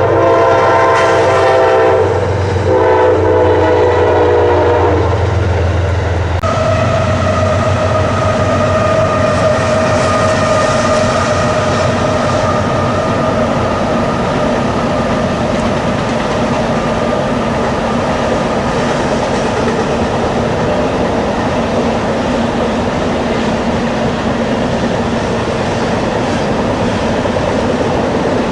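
Locomotive horn sounding two blasts, the first about two seconds long and the second a little longer. Then the steady rolling noise of the passing train with a steady whine.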